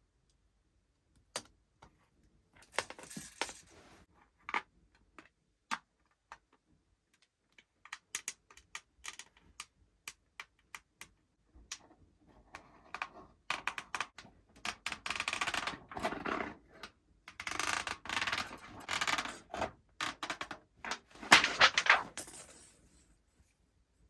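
Scattered sharp clicks and clinks, then from about halfway repeated short bursts of rustling, scraping noise, the loudest near the end.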